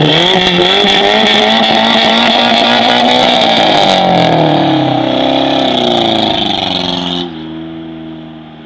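Opel Vectra engine revved through its exhaust and held at high revs, the pitch wavering up and down, then dropping suddenly back to a steady idle about seven seconds in.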